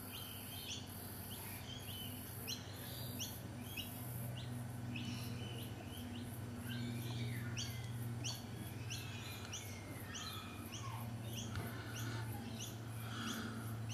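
Small birds chirping, short sharp notes about twice a second, over a steady low hum.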